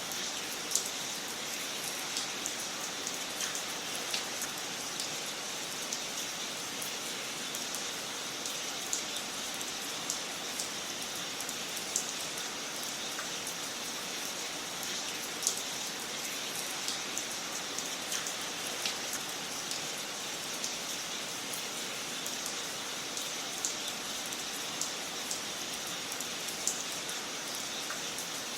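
Wood fire crackling in a fireplace: a steady hiss with frequent small, irregular pops and snaps, a few of them sharper than the rest.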